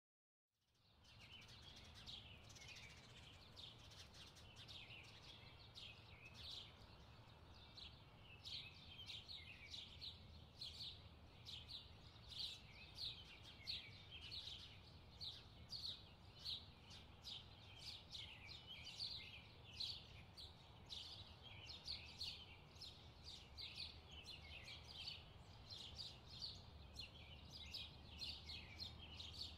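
Faint bird chirping: a steady stream of short, high chirps repeating several times a second, over a low hum.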